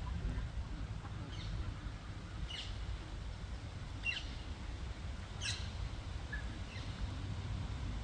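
A small bird's sharp chirps, each sweeping quickly down in pitch, repeating about every second and a half, with the loudest near the middle. A steady low rumble runs underneath.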